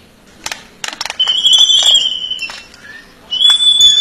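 A bird giving two long, loud, high-pitched calls, each held steady for over a second and dipping slightly at the end, after a few sharp clicks.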